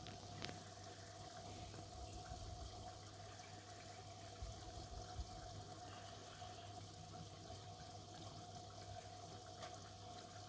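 Miele W1 washing machine running quietly, with water flowing inside it over a steady hum and a faint steady tone.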